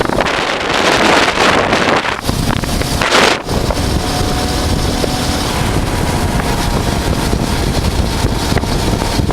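Heavy wind buffeting the microphone on a moving motorcycle, over the running engine of a 1988 Honda Transalp V-twin, with stronger gusts about a second and a half in and again about three seconds in.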